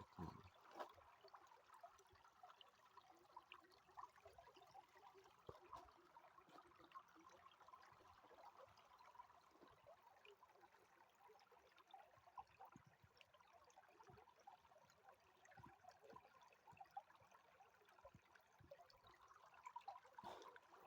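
Faint trickle of a flowing stream, with scattered small ticks.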